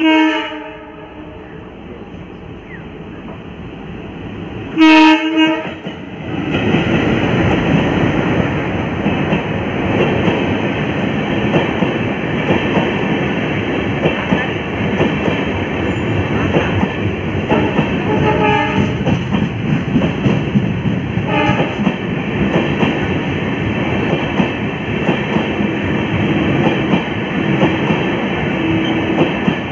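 Indian Railways passenger train's locomotive horn: a blast at the start, then a louder, sharp blast about five seconds in as the train closes in. The train then runs past at speed: coaches rumble and wheels clatter continuously over the rails, with two shorter, fainter horn blasts partway through.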